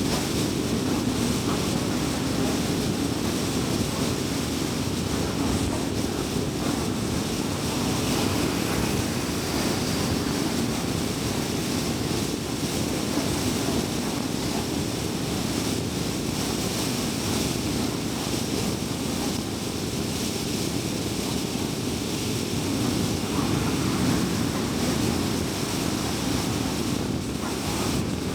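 Car driving at highway speed: a steady rumble of tyre and road noise with engine hum, a little louder for a few seconds near the end.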